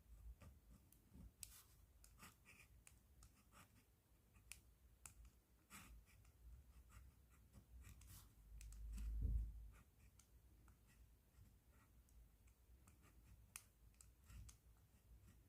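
Faint pen sounds: light scratches and scattered small clicks of a pen being handled and used on paper. About nine seconds in comes a low, muffled bump, the loudest moment.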